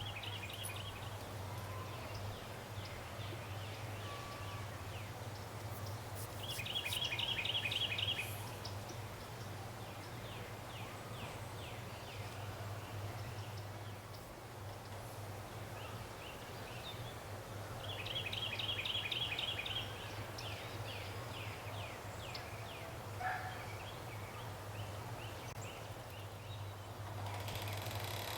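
A bird singing a rapid pulsed trill three times, about ten seconds apart, with fainter short chirps between, over a steady low hum.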